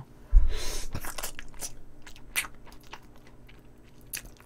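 Close-up sounds of a person biting and chewing pieces of spicy braised chicken held in the fingers: a short rush of noise with a low thump about half a second in, then scattered sharp mouth clicks that grow fainter.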